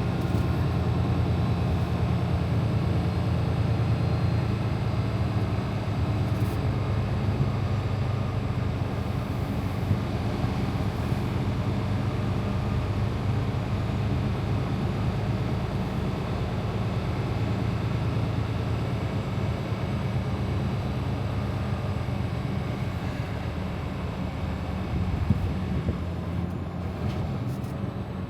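Freightliner Cascadia semi truck's diesel engine running steadily at low speed as the truck is manoeuvred slowly, a low even drone.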